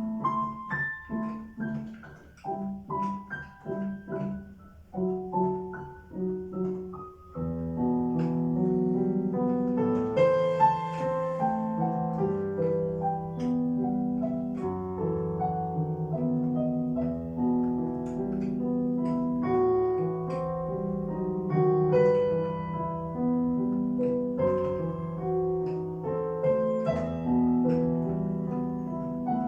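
Piano playing an Ecuadorian pasillo: short, detached notes and chords at first, then a fuller, more sustained passage from about seven seconds in.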